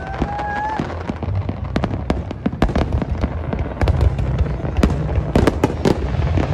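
Fireworks display: aerial shells bursting overhead in a rapid, irregular stream of bangs and crackles over a continuous low rumble.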